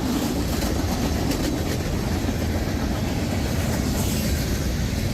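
Freight train cars rolling past at close range: a steady rumble of wheels on rail, with a few clicks of wheels over rail joints about a second and a half in.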